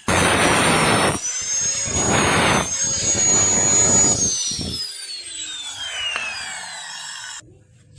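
A high-speed power tool running with a high whine, grinding or cutting in four loud bursts; the whine then winds down and cuts off suddenly near the end.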